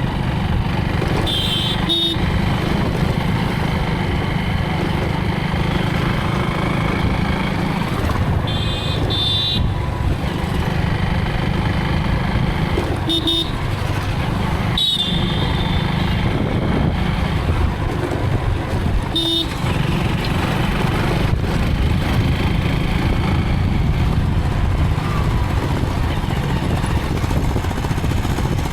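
Motorcycle riding through town traffic: a steady engine and road-and-wind rumble, with short vehicle horn beeps several times, a pair near the start, a cluster of toots about a third of the way in, and single beeps later.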